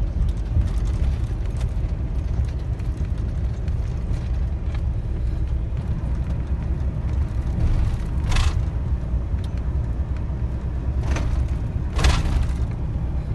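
Steady low rumble of a long-haul truck on the move, engine and road noise together, with two brief hissing noises about eight and twelve seconds in.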